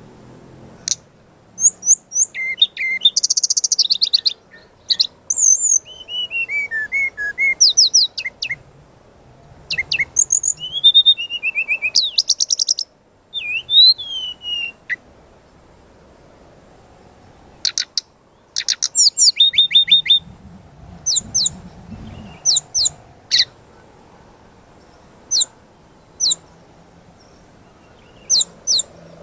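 Sikatan rimba dada coklat (brown-chested jungle flycatcher) singing loudly: rapid high chirps, falling and rising whistles and fast trills, a pause of a few seconds about halfway through, then a run of sharp, quick high notes.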